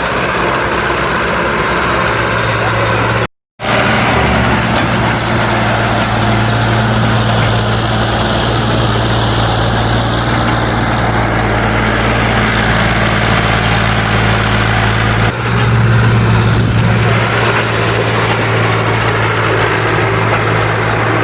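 Tractor diesel engine running hard and steady under heavy load while hauling a loaded trolley. The sound cuts out for a moment about three seconds in and shifts abruptly about 15 seconds in.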